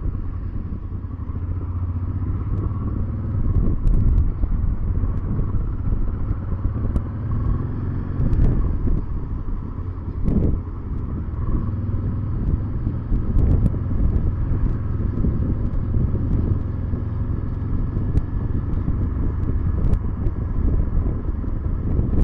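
Honda Transalp motorcycle engine running steadily under way, with wind and road noise over it.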